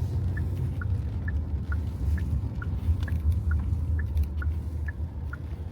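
Steady road and engine rumble inside a moving car's cabin, with a car's turn-signal indicator ticking evenly about twice a second.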